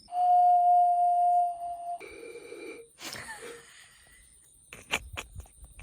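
Breathy, flute-like tones from blowing across the mouth of a soju bottle: one long, steady note, then a shorter, higher note, followed by a breathy puff of air. A few sharp clicks come near the end.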